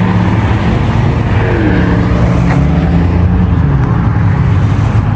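Car engine running close by, a low, steady exhaust note whose pitch rises a little about two seconds in and settles back down.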